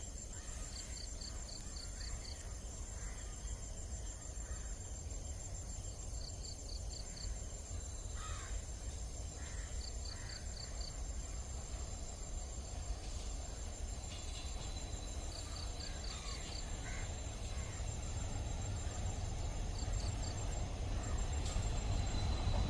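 Outdoor ambience: a steady high insect trill, short runs of five or six high chirps every few seconds, and a few crow caws. Under them a low rumble slowly grows louder toward the end, an approaching diesel train.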